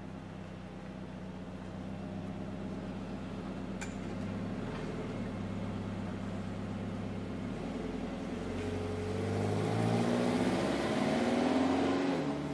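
A motor vehicle engine running and growing steadily louder, its pitch rising over the last few seconds as it accelerates. A single sharp click about four seconds in.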